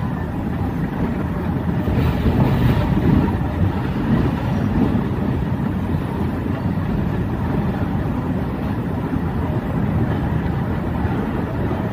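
A diesel-hauled passenger train running along a station platform, heard from the side of a coach: a steady rumble of wheels and running gear, with wind buffeting the microphone.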